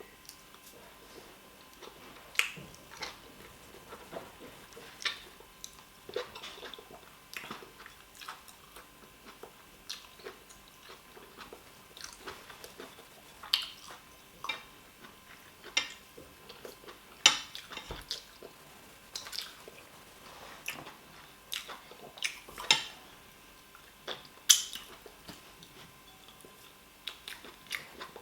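Close-miked eating sounds of a person eating fufu with oha soup: irregular wet mouth clicks, lip smacks and chewing, a few noticeably louder than the rest.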